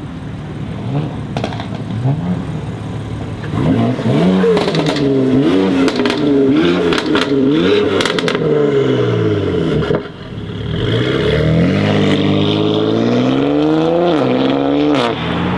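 BMW X3 M Competition's twin-turbo inline-six with a custom exhaust revving hard: a string of quick rises and falls in pitch with sharp cracks among them, a brief drop, then one longer climb that falls away near the end.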